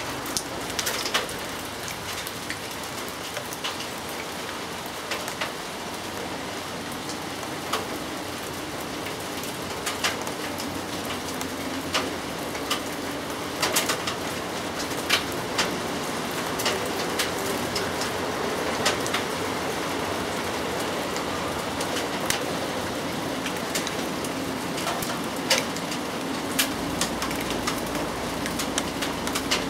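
Steady rain falling, with single drops tapping sharply and irregularly on a nearby surface.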